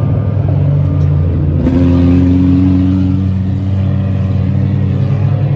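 Mini stock race car engines running at speed, with one engine note standing out louder from about two seconds in to about three seconds in.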